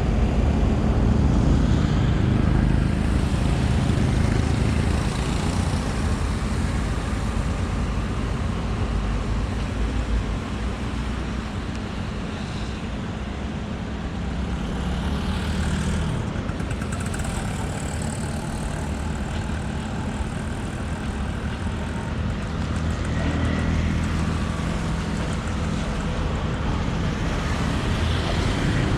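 Diesel locomotive engine running with a steady low rumble, easing a little in the middle and building up again near the end.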